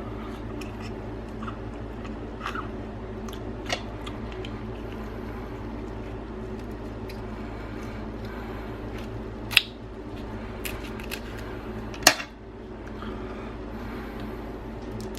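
Boiled crab shells being cracked and picked apart for the meat: scattered sharp cracks and clicks, the two loudest about nine and a half and twelve seconds in, over a steady low hum.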